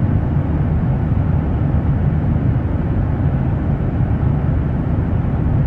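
In-flight cabin noise of a Boeing 737-900ER airliner: a steady, deep rumble of engines and rushing air, with a hiss over it.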